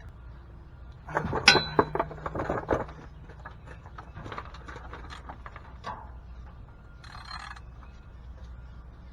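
Metal hand tools clinking and knocking: a burst of sharp clinks about a second in that lasts a couple of seconds, then scattered lighter ticks, as a socket wrench is worked onto the oil drain plug.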